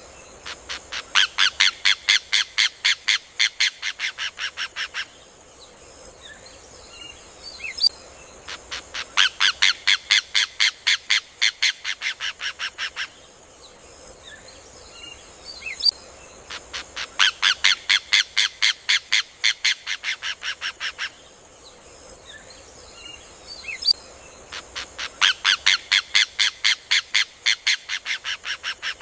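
Rufous hornero (João-de-barro) singing its loud song four times, about every eight seconds. Each song is a fast run of sharp, ringing notes, several a second, that starts loud and tails off toward the end.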